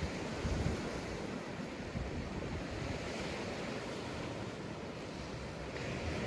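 Surf washing onto a sandy beach as a steady rush, with low gusts of wind buffeting the microphone, strongest in the first second.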